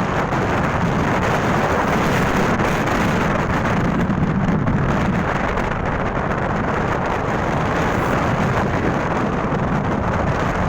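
Loud, steady wind rushing over the microphone on a moving motorcycle.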